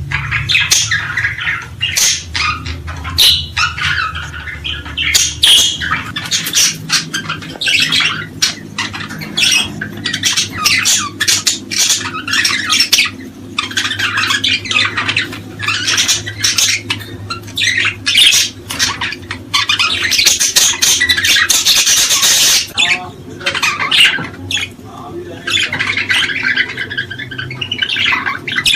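A dense chorus of small songbirds chirping, trilling and calling nonstop, many short notes overlapping, over a faint steady low hum.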